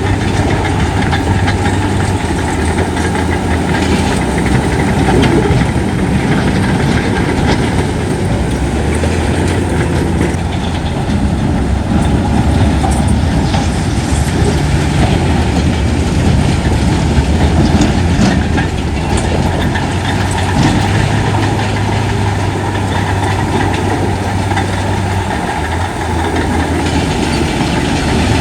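Heavy diesel earthmoving machinery running steadily, a constant low engine drone with a light clatter over it.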